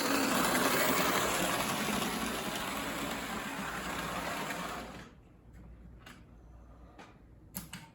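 HO-scale model locomotive running along the track, its small electric motor and wheels making a steady whirring noise that stops abruptly about five seconds in. A few faint clicks follow.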